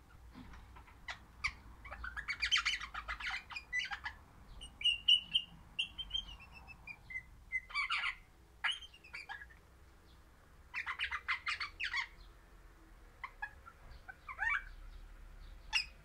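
Birds calling: bursts of rapid chirping chatter, a run of whistled notes stepping down in pitch a few seconds in, and a short rising call near the end.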